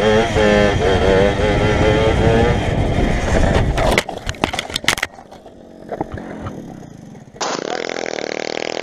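Motorcycle engine running with its pitch wavering up and down, then a few sharp knocks about four seconds in. The sound drops to a quieter stretch, and an engine comes in again near the end.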